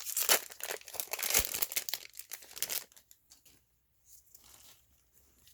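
Foil Pokémon booster pack wrapper crinkling and rustling as it is handled and torn open, busiest in the first three seconds and then a few fainter rustles.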